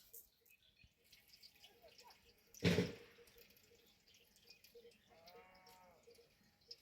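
A brief loud burst of noise about three seconds in, then a single short bleat from a goat near the end.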